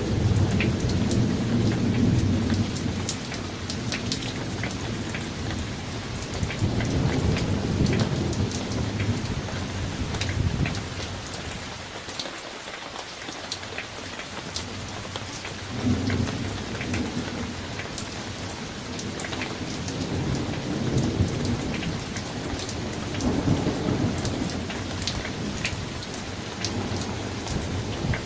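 Summer thunderstorm: steady rain with scattered ticks of drops striking, and thunder rolling in low rumbles that swell and fade four times, the loudest at the start.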